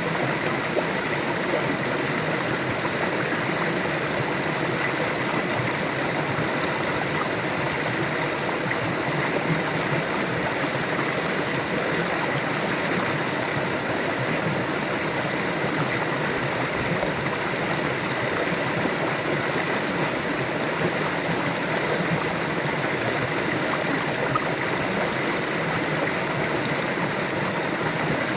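River water flowing and gurgling over stones, a steady, even rush.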